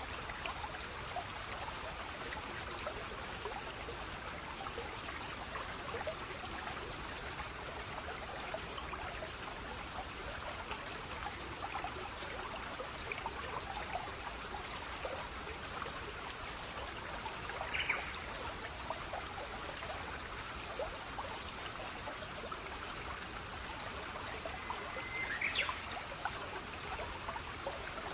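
Running water trickling and babbling steadily. Two brief high chirps rise above it, a little past halfway and near the end.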